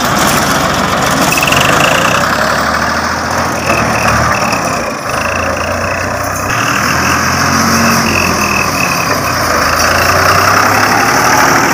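1984 Ford 4610 tractor's three-cylinder diesel engine running steadily.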